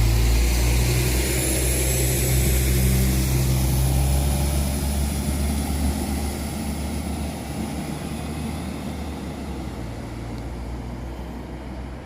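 Diesel multiple unit's engines running with a deep steady note, loudest at first and fading away as the train moves off. A faint high whine drifts slowly in pitch.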